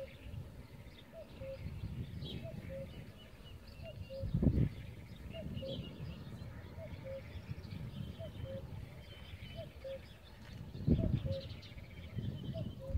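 Birds calling: a short, low call repeats steadily, with fainter high chirps from small birds. Two brief gusts of wind noise on the microphone, about four seconds in and again near the end, are the loudest sounds.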